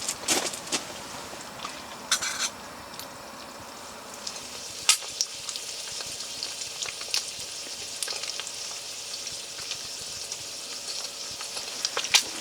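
Food sizzling in a frying pan, a steady hiss that settles in after the first few seconds, with scattered sharp clicks and taps.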